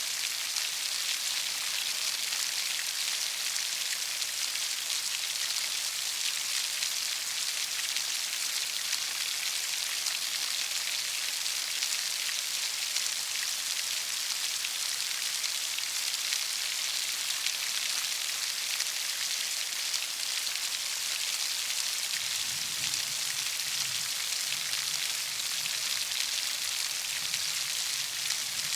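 Heavy rain falling in a steady, dense hiss. A faint low rumble comes in about three quarters of the way through.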